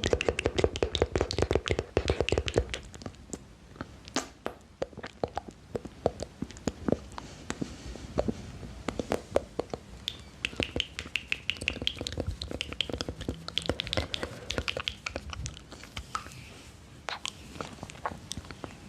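ASMR mouth sounds close to the microphone: a rapid, irregular stream of wet clicks and smacks, busiest in the first few seconds, with short breathy hisses in the middle.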